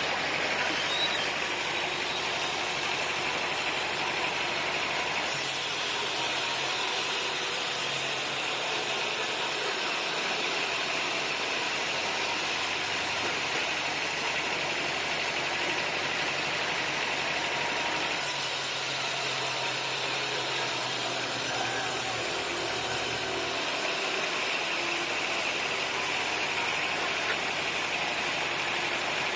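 Sawmill machinery running steadily with a continuous engine-like hum and hiss. A brighter, higher hiss comes in twice, about 5 and 18 seconds in, each time for four or five seconds.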